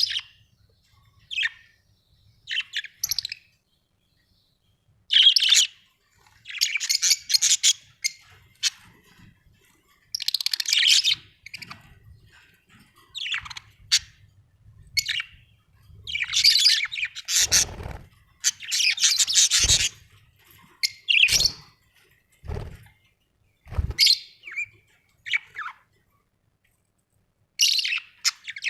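Budgerigars chirping and chattering in short high bursts with pauses between them. Several low knocks come in the middle.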